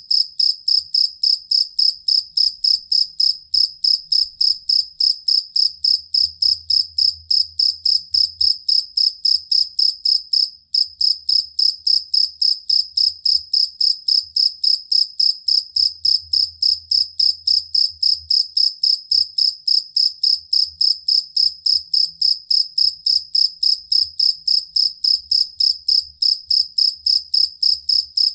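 Field cricket (jangkrik kalung) chirping steadily, a high-pitched song of about four chirps a second, with one brief break about ten seconds in.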